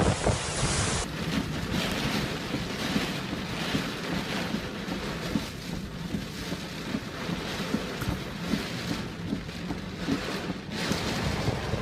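Hurricane wind blowing hard with surf, buffeting the microphone as a rough, unpitched rush. The sound changes abruptly about a second in and again near the end.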